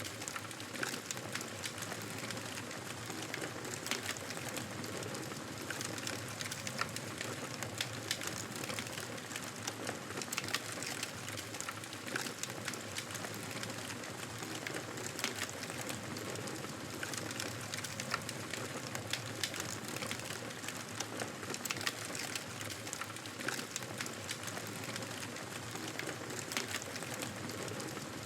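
Wood fire in a fireplace crackling steadily, with frequent small sharp pops and snaps over a soft hiss of the flames.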